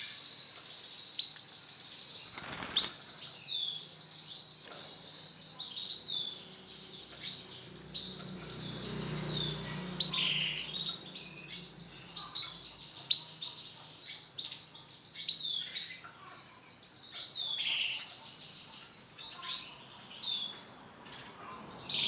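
Male canary singing a long, continuous high-pitched song of trills and rolls, with sharper, louder notes every few seconds. A single brief knock sounds near the start.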